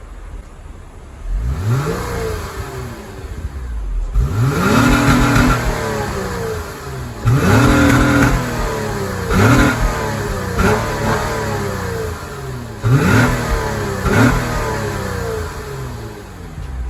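2006 Acura TL's 3.2-litre V6 being blipped from idle, revved up and let fall back six or seven times in a row.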